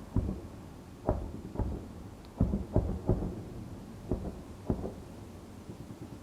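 A series of distant booms from the air attack on the city, about eight in six seconds at irregular spacing, each echoing, over a low steady rumble.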